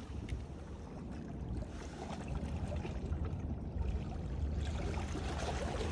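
Wind rumbling on the microphone: a steady low noise with a few faint scattered clicks.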